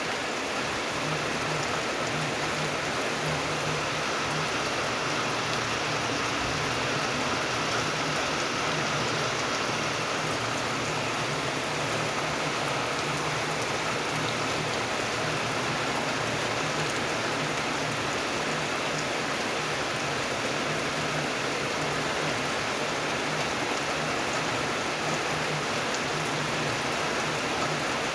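Steady rain falling, an even hiss of drops with faint individual patters and no letup.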